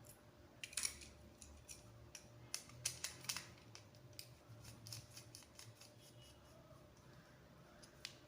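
Scattered sharp snips and clicks from a hand tool working control wire, loudest about a second in and again around three seconds in.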